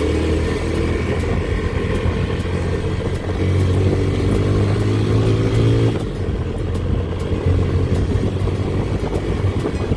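Small motorcycle's engine running while riding, with a steady engine note that drops about six seconds in as the throttle is eased off.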